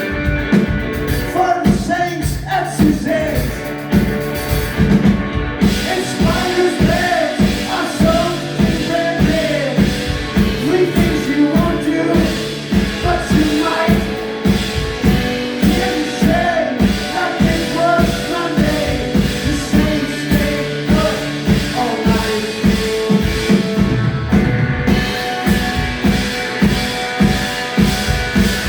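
Live blues-punk music: a singing voice over a steady, driving drum beat with other instruments underneath.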